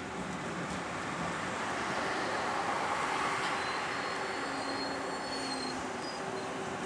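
VR Sm3 Pendolino electric train rolling past along the platform, its wheel and running noise swelling through the middle, with a faint high whine partway through.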